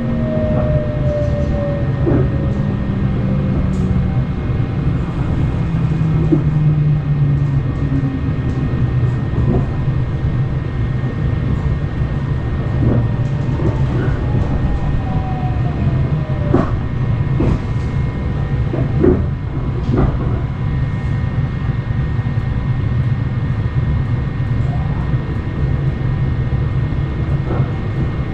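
Running noise of the Sunrise Express sleeper train (a 285-series electric multiple unit) heard from inside a compartment: a steady low rumble with scattered knocks from the wheels and track. Falling electric motor whines come through during the first few seconds and again about halfway through.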